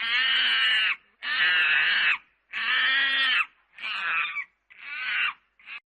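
A monkey giving a series of six high-pitched calls, the first three about a second long and the rest growing shorter, the last one brief.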